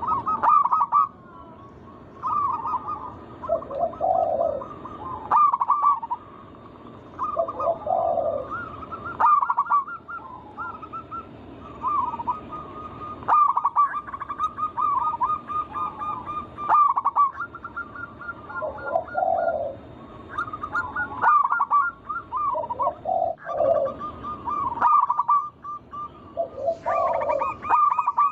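Zebra doves (perkutut) singing: rolling, trilled cooing phrases repeated every few seconds, with a lower burring note in most phrases.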